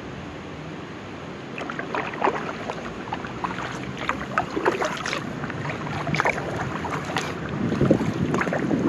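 Kayak paddle strokes in the water: short splashes and drips from the paddle blades, starting about a second and a half in, over wind on the microphone. A louder rush of water builds near the end.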